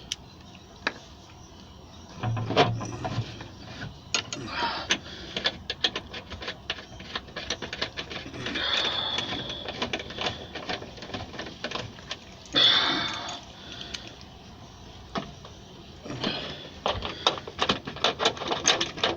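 Irregular metal clicks, clinks and short scrapes of hand tools and metal parts as bolts are fitted back onto a gas water heater's burner assembly.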